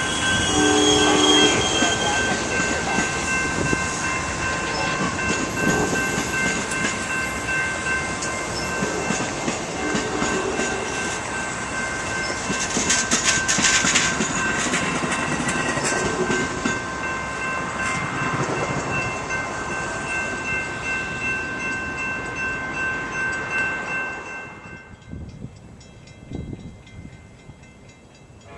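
A train passing close by: wheels clattering on the rails under a dense rumble, with steady high-pitched ringing tones over it. The noise drops away sharply about 24 seconds in.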